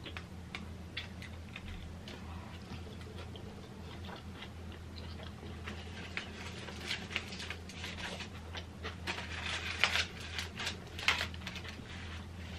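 Close-miked chewing of a burger: irregular wet mouth clicks and smacks, getting busier with a few louder crackles near the end, over a low steady hum.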